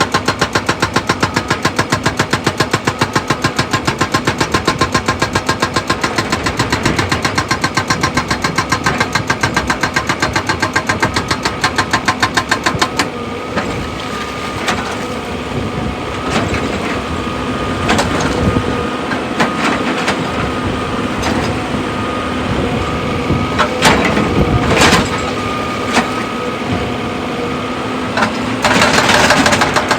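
Excavator's diesel engine running, with a rapid, even pulsing for about the first half. It then settles into a steadier run, broken by a few sharp knocks and a short noisy burst near the end.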